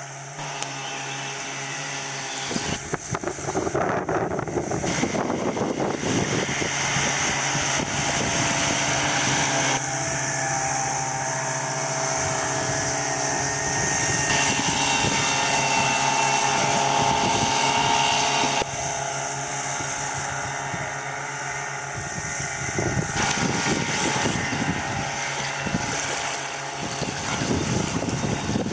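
Veterok-12 two-stroke outboard motor running steadily at speed under way, with wind noise on the microphone; the engine tone shifts a couple of times.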